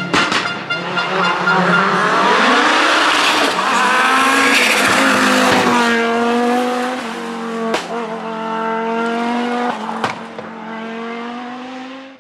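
Group B rally car engine at full throttle, loud and noisy as it goes by, then its note climbing and dropping several times as it revs through the gears. Two sharp cracks come in the second half, and the sound cuts off abruptly at the end.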